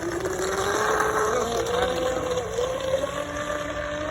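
Electric motor of a homemade remote-control model boat whining as it drives a two-blade propeller across the water, its pitch slowly rising, over a steady rushing hiss.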